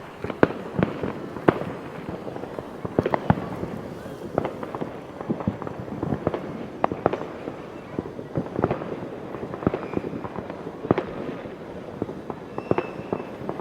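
Fireworks going off: many sharp bangs and cracks at irregular intervals, sometimes several a second, over a steady background rumble and crackle.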